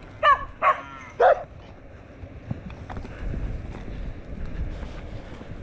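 A dog barking three times in quick succession, each bark short and loud, followed by a steady low rumble.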